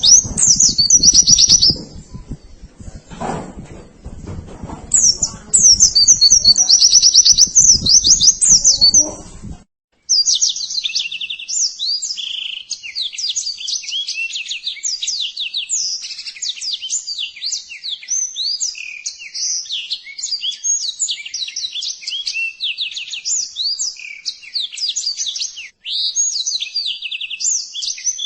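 White-eye (pleci) song from a masteran recording made for tutoring caged songbirds: high, rapid chirping phrases. About ten seconds in, it cuts abruptly to a denser, unbroken run of fast twittering.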